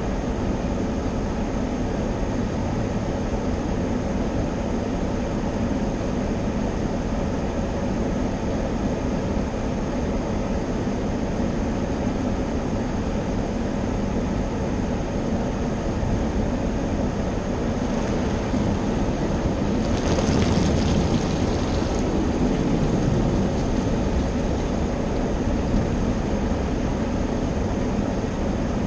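Automatic car wash equipment running: a steady low mechanical drone, with a louder hiss about twenty seconds in.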